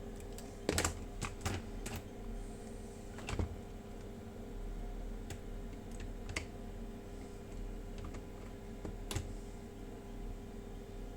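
Scattered sharp clicks and light knocks of hard parts being handled while an airsoft gun is put back together, with a quick cluster in the first few seconds and a few single clicks later, over a faint steady hum.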